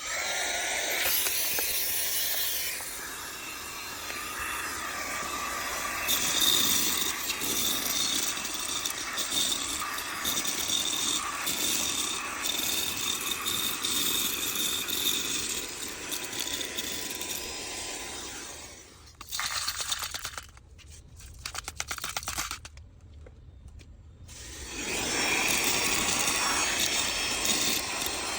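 Small handheld car vacuum cleaner running, its motor giving a steady whine over noisy rubbing and clicking. The sound drops away twice for a few seconds past the middle, then comes back at full strength.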